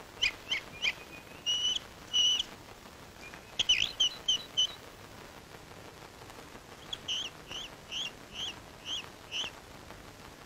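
Birds chirping: short, high, repeated calls in three bouts, the last a run of six evenly spaced notes.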